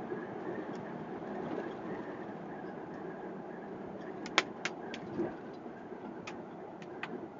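Steady engine and road noise of a moving vehicle, picked up by a dashcam inside the cab, with a handful of sharp clicks or rattles starting about four seconds in.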